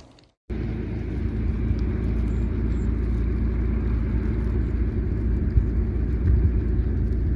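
Motor vehicle noise: a steady low rumble with a faint steady hum, starting abruptly after a brief silence about half a second in.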